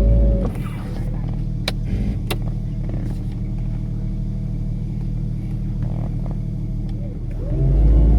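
Off-road vehicle engine running steadily at low speed, with two sharp clicks about two seconds in. It speeds up and grows louder near the end.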